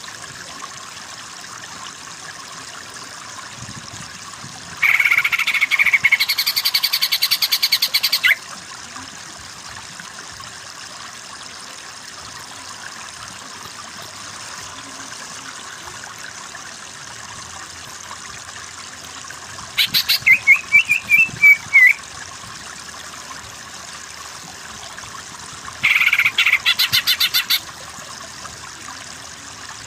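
Cucak ijo (green leafbird) calling in three short bursts of rapid, rattling chatter, the middle one with a wavering whistled note. Behind it a continuous chorus of frogs runs throughout.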